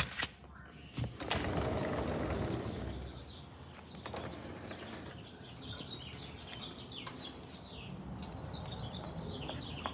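A few sharp knocks and a rushing handling noise in the first three seconds, then a flock of small wild birds chirping outdoors, many short falling chirps that grow busier toward the end.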